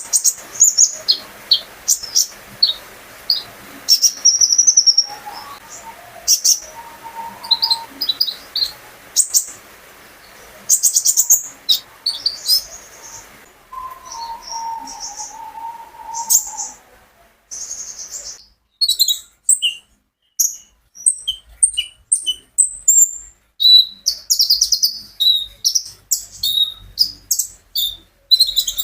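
Konin songbird singing a fast, varied song of sharp high chirps and trills in quick bursts, with a brief pause partway through. A softer, lower drawn-out whistle sounds twice under the song.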